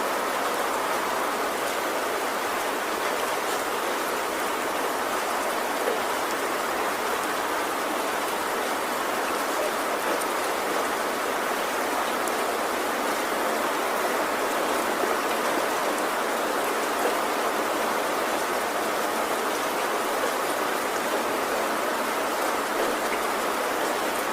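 Heavy rain pouring steadily on a metal roof, a dense even hiss with no let-up.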